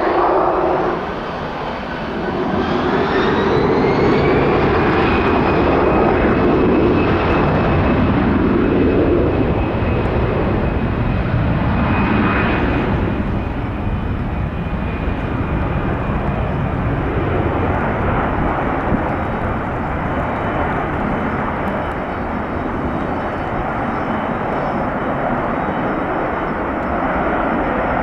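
Jet airliner engines spooling up to takeoff power, with a whine that rises over a few seconds and then holds steady above a loud, continuous rumble that slowly eases off.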